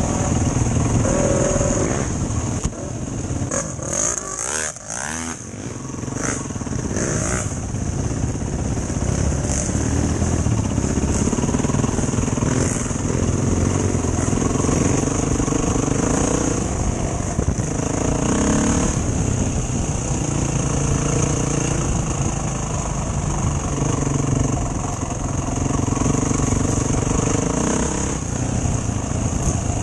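Enduro dirt bike engine running while being ridden, its note rising and falling with the throttle.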